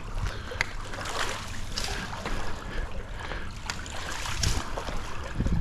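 Pool water sloshing and splashing, with scattered small splashes, as floating debris is skimmed off the surface.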